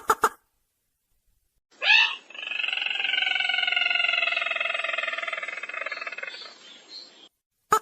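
Lure recording of the sintar merah bird. A rapid series of sharp notes ends at the start. After a short pause comes one long call of about five seconds: a fast trill that slowly falls in pitch and fades out near the end.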